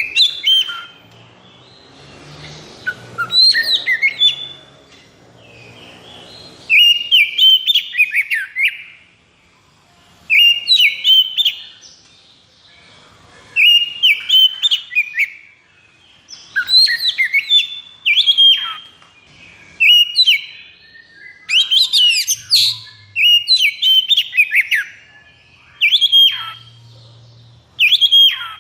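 Oriental magpie-robin (kacer) singing in short loud phrases of rapid whistles and sharp rising and falling notes, one phrase every two to three seconds. It is the fast, aggressive fighting song that kacer keepers call 'konslet'.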